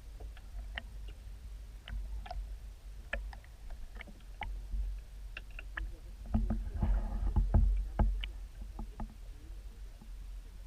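Underwater sound: scattered sharp clicks and ticks over a steady low rumble. A louder churning stretch of rumble with dense clicks comes between about six and eight seconds in.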